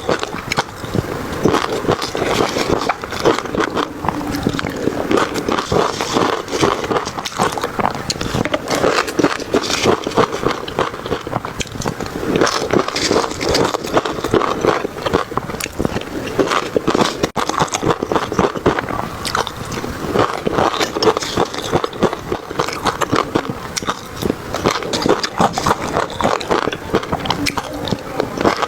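Close-miked eating: continuous wet chewing and crunching of food, with quick bites and mouth clicks throughout.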